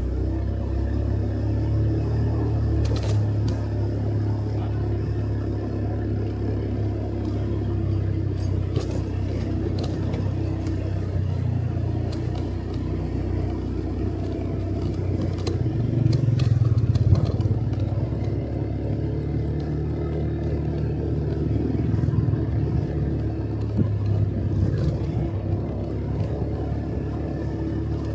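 Motorcycle engine running steadily under way, its note swelling briefly about two-thirds of the way through, with a few light clicks and rattles.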